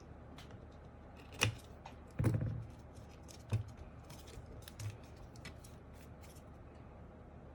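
A few sharp clicks and clacks of small hard parts being handled during mechanical keyboard work. The loudest is a short cluster about two seconds in, with fainter ticks in between.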